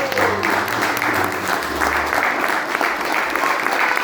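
Audience applauding steadily at the end of a stage play, with faint music underneath.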